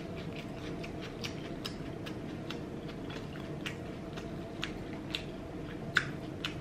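Close-miked chewing of a mouthful of food with the mouth closed: soft, irregular wet mouth clicks, a few each second, over a faint steady hum.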